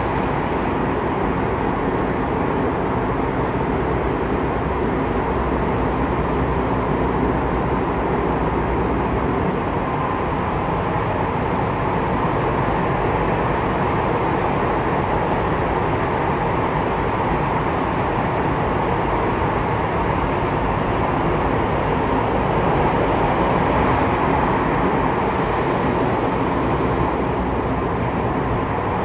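Saitama Railway 2000 series electric train running at speed, heard from inside the car: a steady rumble of wheels on rail and running noise. A brief faint high hiss comes near the end.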